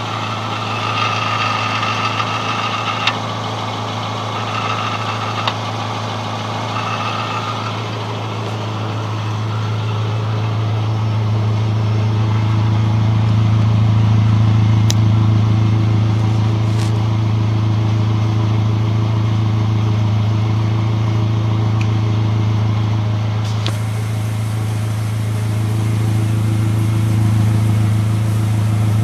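Subaru Impreza's EJ22 flat-four engine running steadily, a low, even drone heard from beneath the car that grows louder about eleven seconds in.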